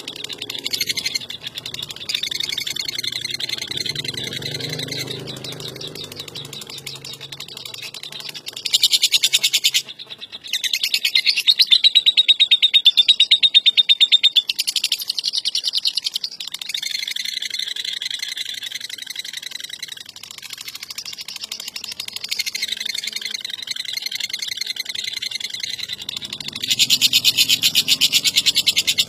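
Lovebird ngekek: a long, unbroken, rapid high-pitched chattering trill, swelling louder in stretches about nine seconds in, again a second or two later for a few seconds, and near the end.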